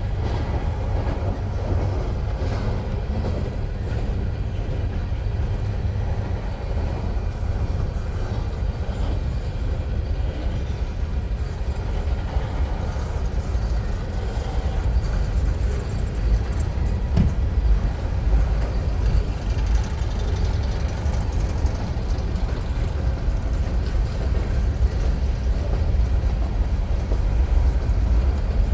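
Union Pacific freight train rolling slowly past, a steady low rumble that grows a little louder in the last third.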